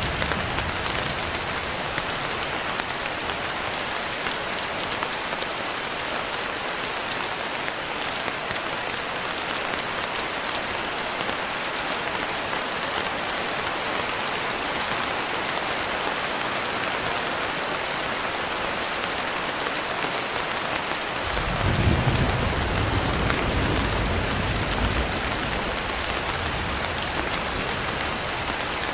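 Steady rain falling, an even hiss of drops. About two-thirds of the way through, a low rumble of thunder rolls in for several seconds and is the loudest part, then fades back under the rain.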